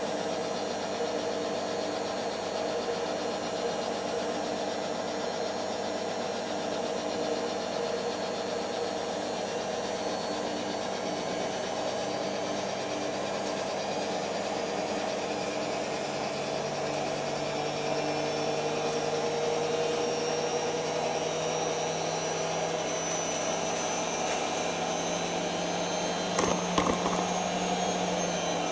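Creda Simplicity W120VW washing machine in its spin cycle: the drum motor whines and rumbles, its pitch climbing slowly as the drum speeds up, with a couple of brief knocks near the end. The motor is worn and struggles to put power in smoothly.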